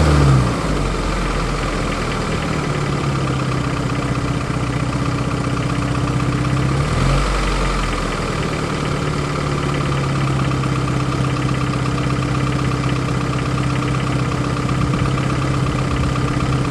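1993 Geo Tracker's 1.6-litre four-cylinder engine dropping back to idle, with a brief rev about seven seconds in, then idling steadily. It has an off-rhythm clattering knock that the owner suspects is rod knock.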